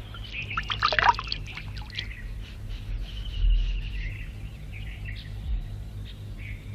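Faint birds chirping in short, scattered calls over a low steady hum.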